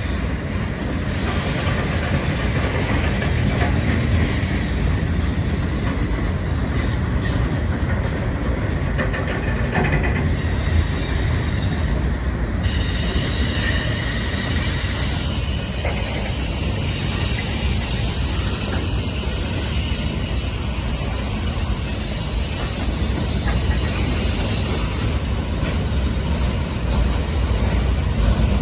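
Cars of a long CSX freight train rolling past: a steady rumble of wheels on rail, with a thin high squeal of wheels against the rail riding over it.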